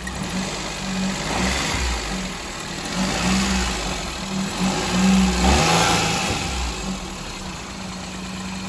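Maruti Suzuki Alto's petrol engine running under an open bonnet, a little louder around the middle.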